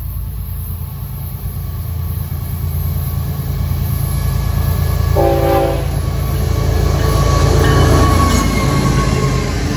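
Florida East Coast Railway freight train led by GE ES44C4 diesel locomotives, approaching with a heavy low rumble that grows louder as it draws near. A short horn blast sounds about five seconds in, and near the end the locomotives pass close by.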